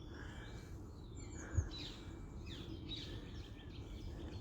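Faint birdsong: several short chirps and calls from small birds over a steady low outdoor rumble, with one soft thump about a second and a half in.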